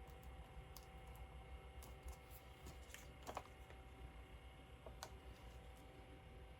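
Faint, scattered small clicks and taps from scrapbooking supplies being handled on a craft table, over a faint steady hum; one sharper click comes a little past three seconds in.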